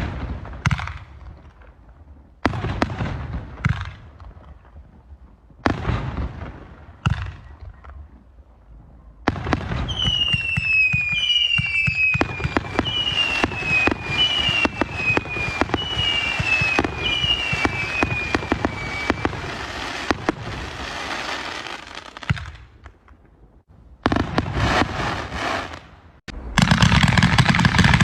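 New Year's Eve fireworks and firecrackers: separate bangs every second or two, then a long stretch of rapid crackling with a series of falling whistles. Near the end comes a loud burst of dense crackling.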